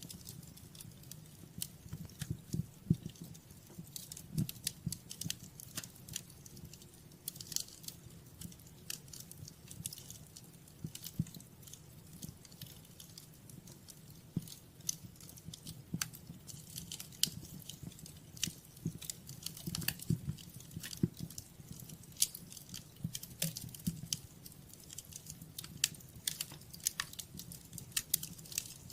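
Wood fire in a fireplace crackling and popping: quick, irregular snaps over a steady low rumble of the flames.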